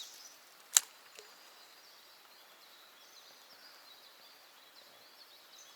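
Faint birdsong of short repeated chirps over quiet open-air ambience, with one sharp click a little under a second in.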